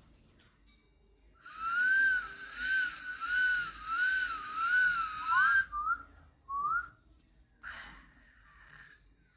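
Rose-ringed parakeet whistling: a loud warbling whistle that wavers up and down for about four seconds, then a few short rising whistle notes, and a brief harsh call near the end.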